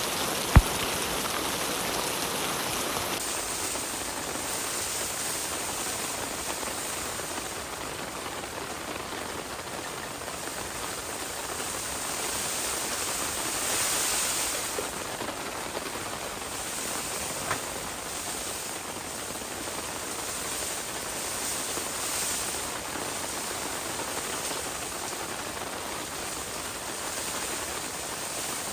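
Steady rain falling, an even hiss without breaks, with a sharp click about half a second in and a fainter one later.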